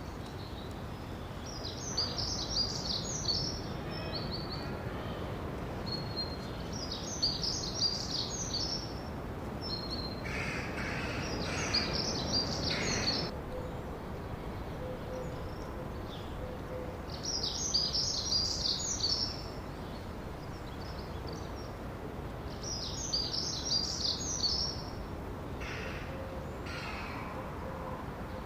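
A songbird singing: a short phrase of quick high notes, repeated about every five seconds, over a steady background hiss. A second, lower call joins near the middle.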